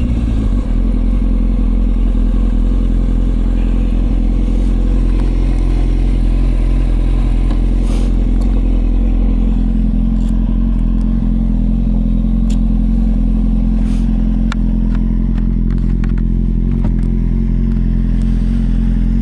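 Motorcycle engine running steadily at an even engine speed, its pitch barely changing, with a scattering of sharp light clicks over it in the second half.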